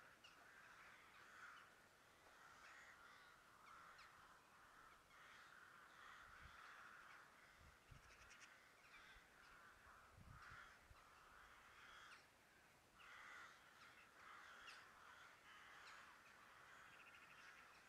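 Faint bird calls: a run of harsh, cawing calls repeating about once or twice a second, with brief thin chirps among them.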